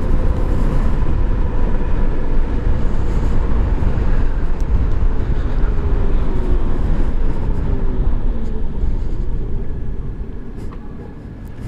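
2018 Zero SR electric motorcycle under way, with heavy wind and road rumble and a faint electric motor whine that falls in pitch as the bike slows; the rumble dies down near the end as it comes to a stop.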